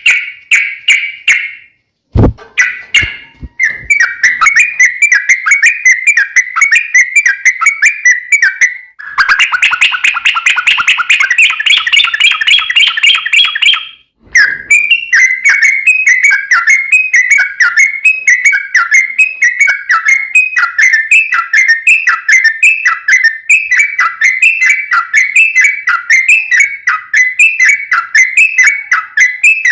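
Yellow-vented bulbul (trucukan) singing its long, rapid bubbling song: fast runs of repeated chattering notes, with two brief breaks, a short low thump at the first one about two seconds in, and a denser, fuller passage in the middle.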